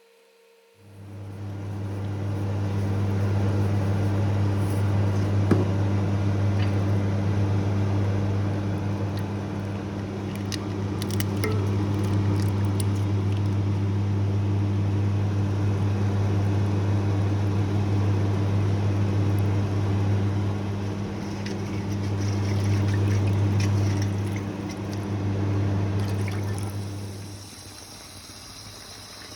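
Water running, over a steady electric hum; both start about a second in and cut off shortly before the end.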